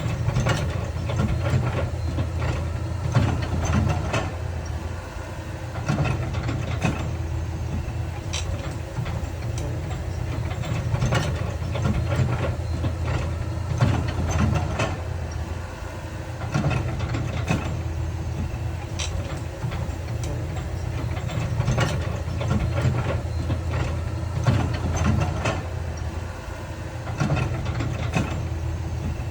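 Heavy diesel earthmoving machinery running steadily, with frequent sharp clanks and knocks scattered through it.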